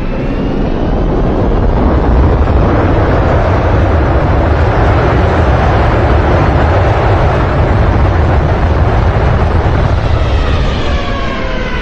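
Airliner crash landing heard from the passenger cabin: a loud roar with a heavy low rumble that builds over the first couple of seconds and holds. Near the end it eases, and falling jet-engine whines come through as the aircraft slows.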